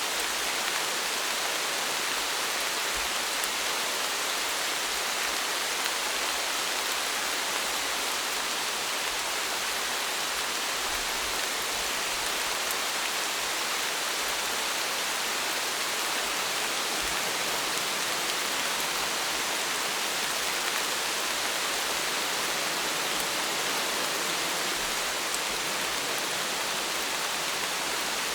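Steady, even rain falling, a constant hiss with no thunder or separate drops standing out.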